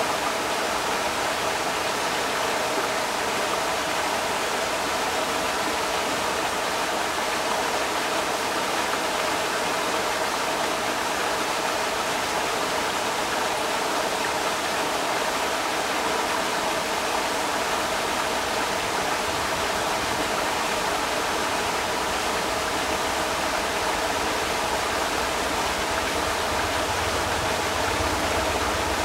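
Creek water rushing steadily, a continuous even wash of flowing water. A low rumble joins in near the end.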